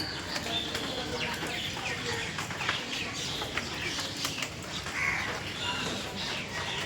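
Domestic fowl calling: many short chirps and clucks, over a steady background hiss.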